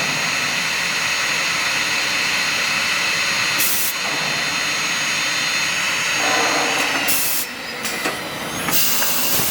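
Six-sided CNC panel drilling machine running: a steady hiss with several steady high whining tones, broken by short loud hissing bursts about three and a half seconds in, about seven seconds in and again near the end.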